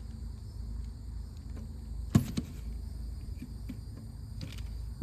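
Small die-cast toy tractor being handled: one sharp knock about two seconds in, a lighter one just after, and a few light clicks near the end, over a steady low hum and a faint high insect trill.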